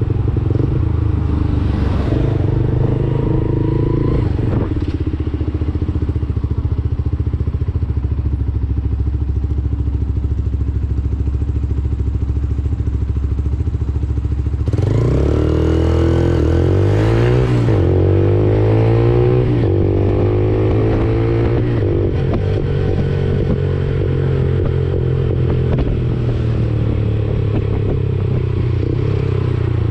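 Lexmoto Assault 125's 125cc single-cylinder engine through a Black Widow aftermarket exhaust, running at a steady speed. About halfway in, the engine note gets louder and climbs and dips in pitch several times through gear changes, along with a rising hiss, then holds steady and falls off near the end.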